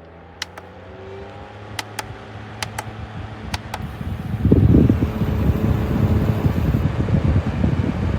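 Small desktop evaporative air cooler's fan running, with a series of sharp clicks in the first four seconds as the airflow grows stronger. About halfway in, the air blast buffets the microphone as a loud, uneven rush.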